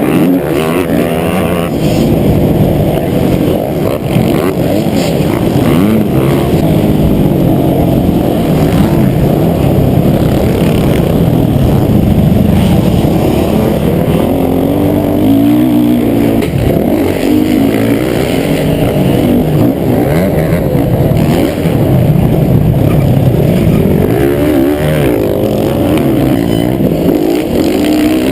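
Motocross motorcycle engine running hard, revving up and down again and again as the bike rides the track, loud and close.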